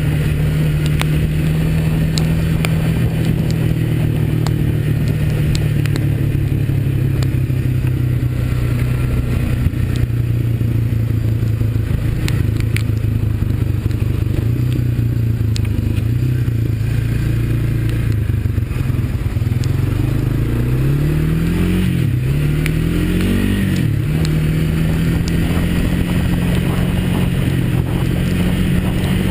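Honda ATV's single-cylinder four-stroke engine running steadily while riding, revving up twice in quick succession about two-thirds of the way through before settling back to a steady note.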